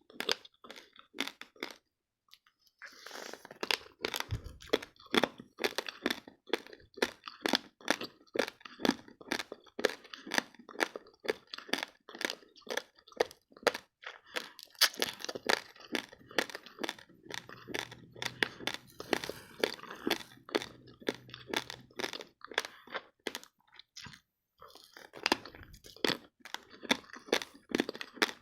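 Raw, uncooked basmati rice grains being chewed close to the mic: rapid crisp crunches, with short pauses about two seconds in and again near the end.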